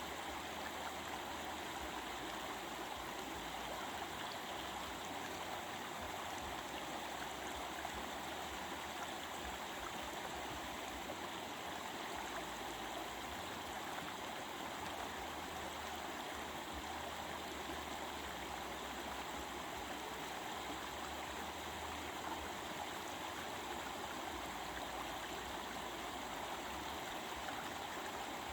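Stream of water flowing and babbling over rocks, a steady, even rush.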